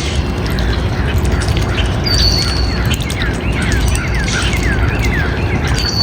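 Birds calling over a loud, steady low rush of noise: a long high whistle about two seconds in and another near the end, with a quick run of short falling chirps in between.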